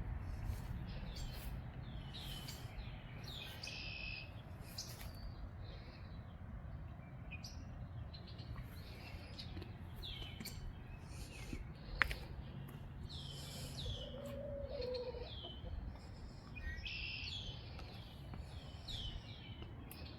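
Songbirds chirping in many short repeated notes, over a low rumble of wind on the microphone, with one sharp click partway through.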